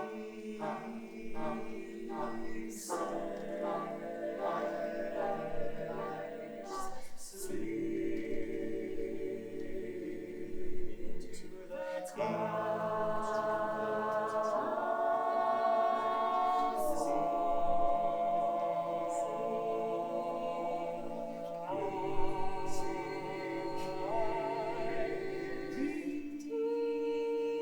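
Choir singing in several-part harmony, holding chords that shift every few seconds. The first few seconds pulse in a quick, repeated rhythm.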